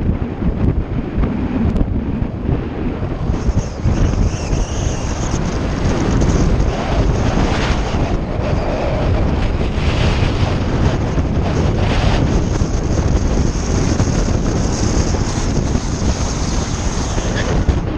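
Wind buffeting the microphone while riding a bicycle: a loud, steady low rumble. A thin high whine joins about three seconds in and drops out near the end.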